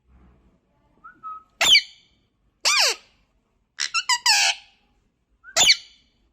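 Pet parrot giving a string of loud, shrill calls, each sweeping down in pitch: about five bursts with short gaps, the fourth a quick run of several calls.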